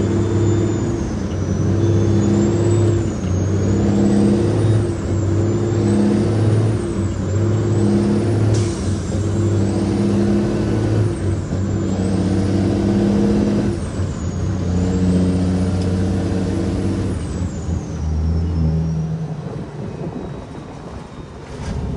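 Cat 6NZ inline-six diesel of a loaded Kenworth W900L running under load, its note breaking and picking up again every couple of seconds, with a faint high whistle rising and falling over it. The engine note drops away near the end.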